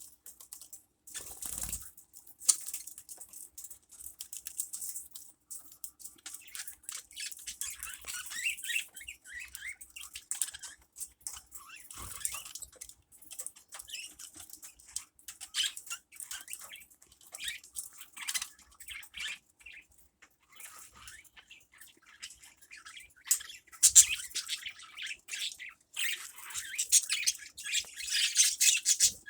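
Small birds chirping and squawking in rapid, overlapping short calls. There is a loud burst about two-thirds of the way in, and the calling grows denser and louder near the end.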